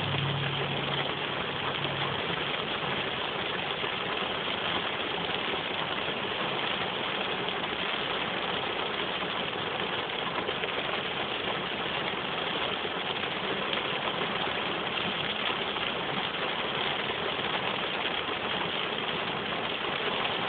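Steady hiss of rain falling on a car's windshield and roof, heard from inside the cabin. A low hum dies away in the first couple of seconds.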